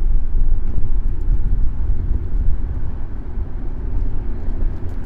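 City street traffic heard from a camera mounted on a moving bicycle: a steady, loud low rumble.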